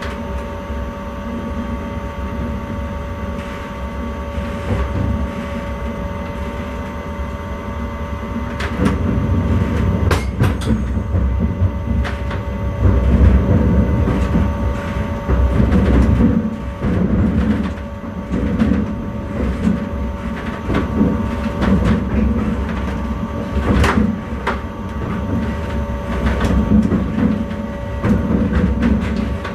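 Intercity train running along the line, heard from the driver's cab: a steady electrical hum over a low rolling rumble. From about nine seconds in the rumble grows louder, with repeated clicks and knocks of the wheels over rail joints.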